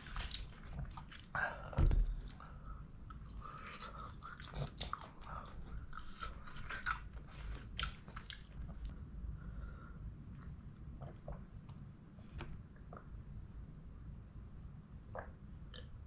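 Close-miked eating sounds: wet chewing, lip smacks and clicks of rice and chicken curry being eaten by hand, thinning out after about eight seconds, with one louder thump about two seconds in. A faint steady high-pitched whine sits underneath.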